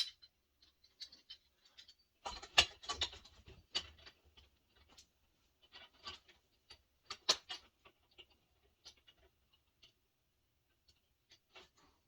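Faint, scattered clicks, scrapes and rustles of objects being handled, with a busier cluster about two to four seconds in and a sharper knock about seven seconds in.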